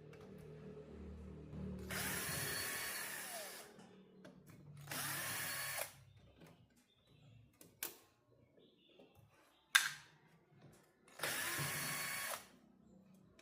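A small handheld power tool's motor run in three short bursts of about a second each, its pitch rising as it spins up and falling as it stops, with a couple of sharp clicks in between.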